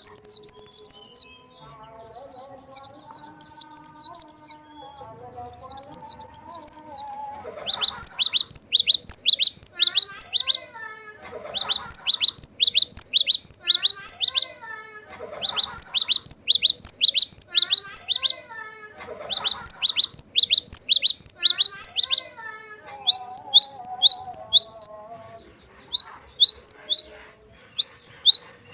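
Cinereous tit (glatik batu) singing: fast runs of sharp, repeated high whistled notes in phrases of two to four seconds, separated by short pauses. A fainter, lower chattering goes on beneath the phrases.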